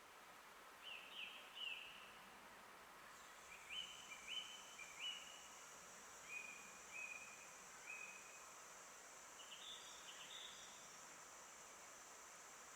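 Songbirds calling in a forest: faint groups of two or three quick chirps, about every two to three seconds. A steady high hiss or buzz sets in about three seconds in.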